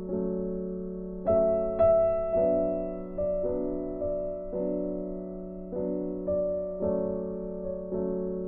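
Background music: a soft piano-like keyboard melody, a new note or chord struck about every second and left to ring and fade.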